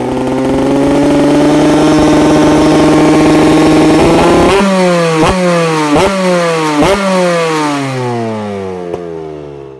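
Suzuki RM125 two-stroke motocross engine revving through its Doma exhaust: the revs are held and creep up for the first half, then from about halfway the pitch falls steadily, broken by three quick throttle blips.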